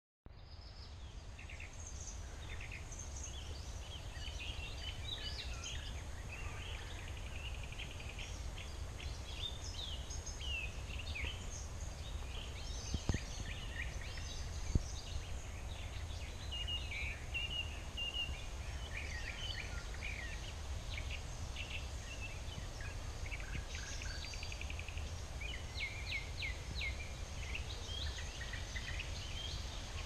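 Small birds chirping and twittering on and off throughout, over a steady low rumble. Two sharp clicks about halfway through, under two seconds apart.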